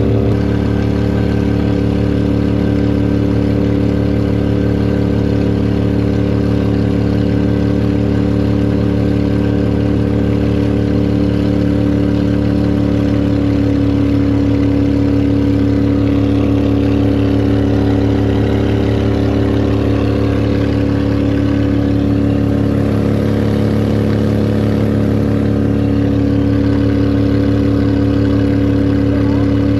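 Boat motor on a duck boat running steadily at an even speed. Its pitch shifts slightly about halfway through.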